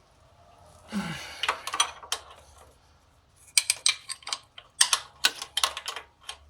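Metal hand tools clinking and clicking on the motorcycle's engine-mount bolts: irregular sharp metallic clicks that start about three and a half seconds in, after a short vocal sound about a second in.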